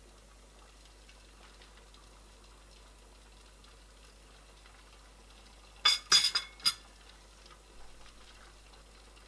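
A quick cluster of four or five sharp clinks of hard objects knocking together, about six seconds in, against a quiet background.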